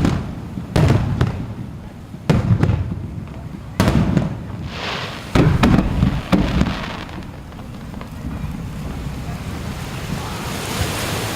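Aerial fireworks shells bursting over the sea: a run of about eight deep booms in the first six or seven seconds, with a crackling hiss after one of them. A crackling hiss builds again near the end.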